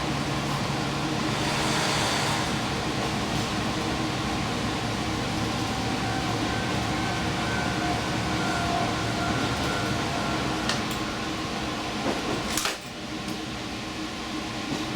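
Inside a diesel express train at speed: steady rolling and engine noise with a faint whine. A couple of sharp clicks come about two-thirds of the way in, and the noise drops suddenly soon after.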